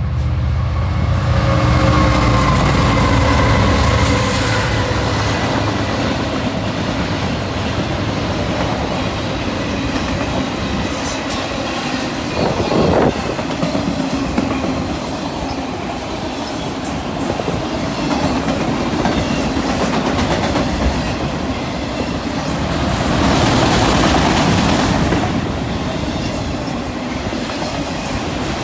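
CN freight train rolling past, its wheels clicking over the rail joints. A deep rumble is heaviest in the first few seconds, then the cars roll by in a steady clatter that swells louder again near the end.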